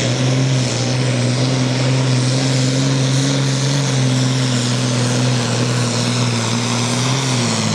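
Diesel engine of a competition pulling tractor running at steady high revs, its pitch easing down slightly near the end.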